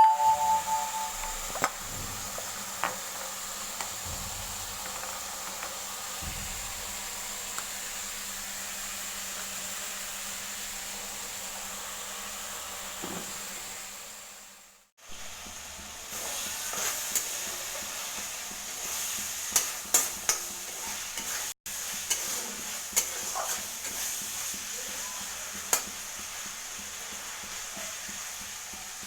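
Food sizzling as it fries in a pan, with scattered clicks and scrapes of a utensil stirring it. The sizzle fades out about halfway through and starts again after a short break.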